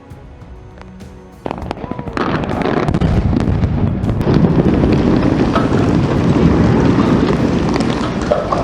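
Quiet for about a second and a half, then a sudden dense crackling and popping of many sharp bangs that carries on loudly, with music underneath.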